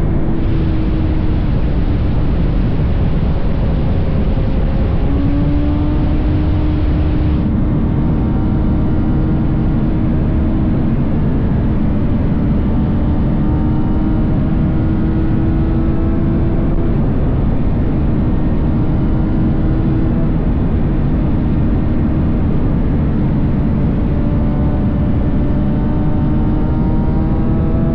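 BMW S1000RR's inline-four engine running at a steady cruise, heard over heavy wind noise on the rider's camera. The engine note holds and slowly rises, dipping or breaking off briefly a few times as the throttle changes.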